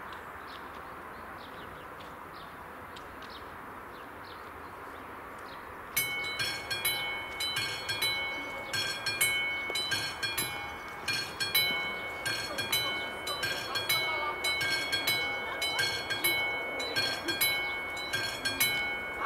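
Steady low background noise, then about six seconds in a level crossing's electronic warning bell starts up, ringing in fast even strokes of a few bright tones: the crossing is activating for an approaching train.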